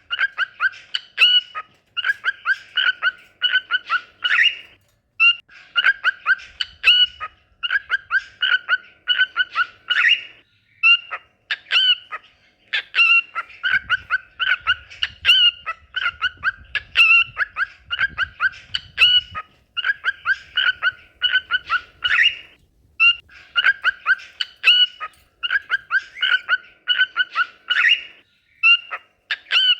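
Cockatiel singing: quick strings of short chirping whistles, repeated in phrases a second or two long with brief pauses between.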